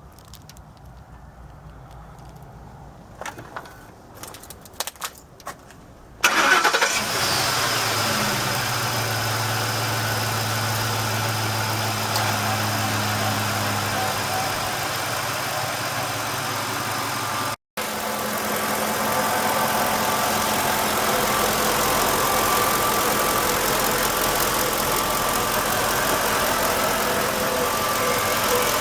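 Ford 5.4-litre three-valve V8 of a 2007 F-150 starting about six seconds in after a few light clicks, flaring briefly and then settling into a steady idle.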